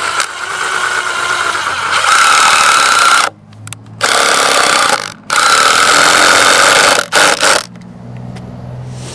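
Cordless Ryobi drill driving a screw to pull a fence board tight against its post, its motor whine rising as it spins up, then three long runs with short pauses and a few quick blips.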